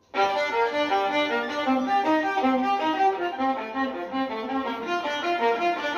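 Violin music with a quick run of short notes, starting suddenly just after the beginning.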